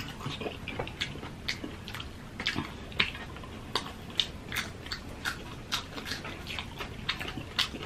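Close-miked chewing and biting of crispy fried food, with sharp crackly crunches coming irregularly about twice a second.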